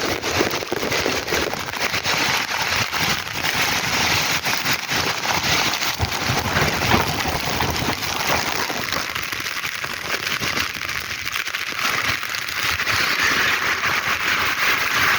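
Heavy rain pouring down: a steady, dense hiss of drops pattering on hard surfaces.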